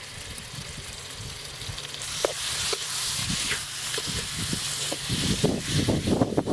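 Raw chicken pieces sizzling in hot oil in a wok, the sizzle swelling loudly about two seconds in. From about five seconds a metal spatula scrapes and knocks against the wok as the chicken is stir-fried.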